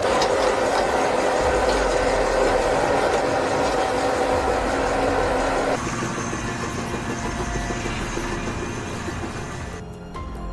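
A heavy vehicle's engine running, loud and steady, then cut off abruptly about six seconds in and replaced by a quieter engine-like running sound.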